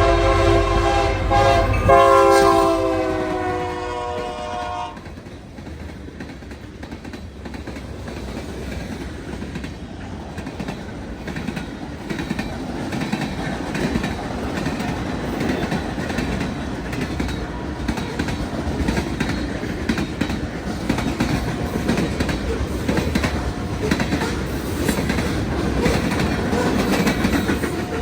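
Freight locomotive's air horn sounding a chord over a deep diesel rumble, its pitch dropping about two seconds in as the locomotive passes, and cutting off a few seconds in. Then the freight cars roll by with a steady rumble and clickety-clack of wheels over the rail joints.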